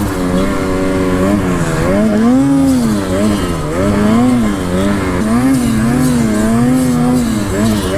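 Snowmobile engine revving up and down over and over as the rider works the throttle through snow, its pitch rising and falling about once a second.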